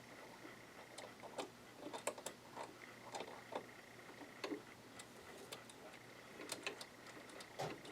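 Faint, irregular small clicks and light scrapes of a screwdriver and fingers working a screw out of a sewing machine's metal plate.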